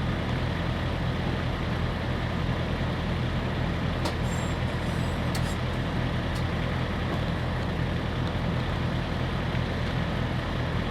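Semi truck's diesel engine idling steadily with an even low hum. A few faint clicks come near the middle.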